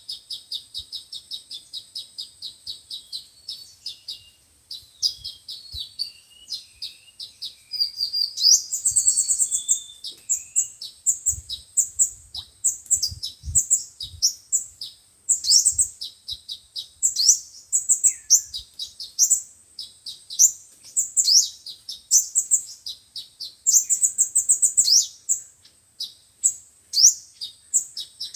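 Sunbirds singing: a fast run of high, evenly repeated chips, then a continuous stream of sharp, high-pitched twittering notes and short trills.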